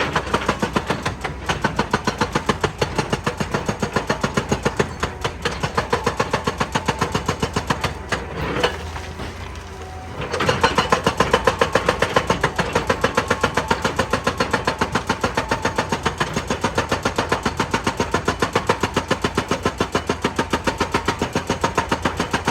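Excavator-mounted hydraulic breaker hammering rock in rapid, regular blows, about five a second, over the excavator's running engine. The hammering pauses for about two seconds near the middle, then starts again.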